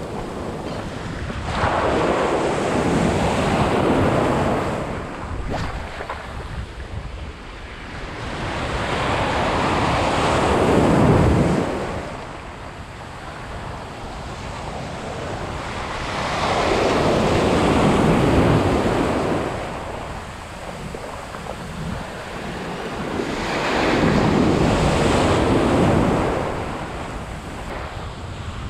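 Ocean surf breaking on a beach: four surges of rushing wave noise, each building and fading over a few seconds, roughly seven seconds apart. Wind buffets the microphone throughout.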